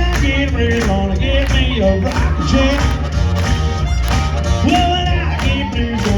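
Live blues band playing loudly, with a heavy bass beat and a singing lead line over it.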